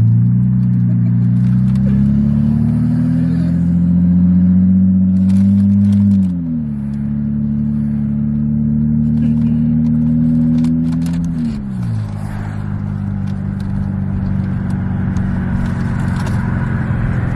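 Car engine accelerating, its pitch climbing steadily and then dropping sharply twice, about six and twelve seconds in, as the transmission shifts up; after the second shift it runs at an even pitch.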